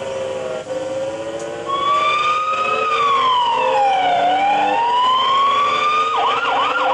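Recorded fire-engine siren sound effect from a looping sound track. A wail starts about two seconds in, rises, falls and rises again. Near the end it switches to a quick yelp of rapid chirps, over a steady droning tone.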